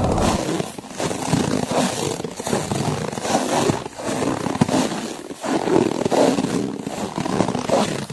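Footsteps crunching through snow at a steady walking pace, a step about every second.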